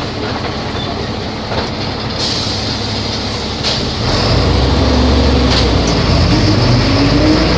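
Volvo B270F bus's diesel engine running under way, its low rumble growing louder about four seconds in as it pulls, with the engine note rising in pitch toward the end.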